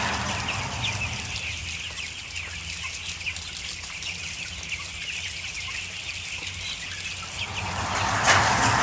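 Chickens clucking and peeping in many short, quick calls over a steady low hum, growing louder near the end.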